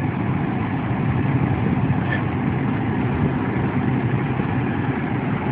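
Steady vehicle engine and cabin noise, a constant low rumble with no changes.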